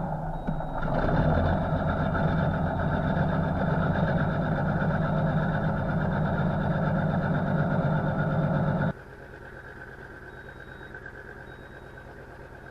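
A vehicle engine running steadily. About two-thirds of the way through it cuts abruptly to a much quieter, steady engine hum.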